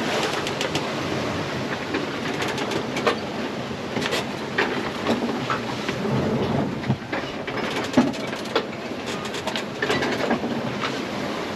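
Sailboat running dead downwind in strong wind: a steady rush of water and wind, with frequent sharp clicks and knocks from the boat's gear and rigging.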